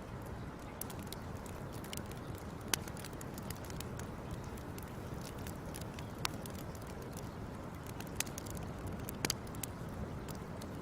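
Wood fire burning with a steady low rush and a handful of sharp crackles and pops a few seconds apart, two of them in quick succession near the end.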